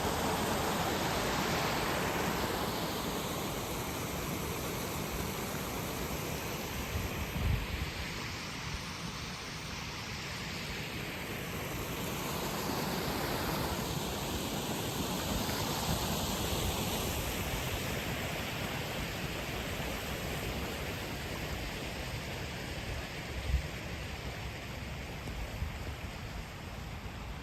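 Steady rushing of flowing river water, swelling and fading gently every few seconds, with a few brief low thumps.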